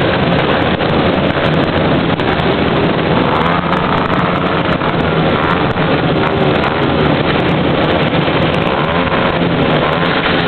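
Many motorcycle engines running together as a procession of motorbikes rides past, a steady, loud, continuous engine noise.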